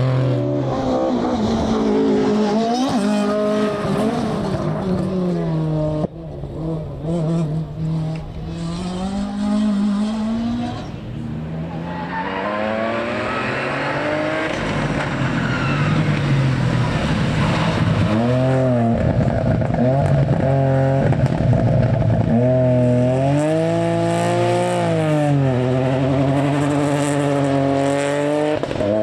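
Rally car engine driven hard on a special stage, revs climbing and dropping again and again with gear changes and lifts for corners.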